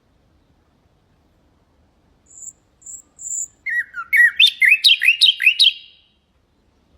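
Nightingale singing: three short, thin, high notes, then a fast loud run of about seven repeated swooping notes that stops about a second before the end.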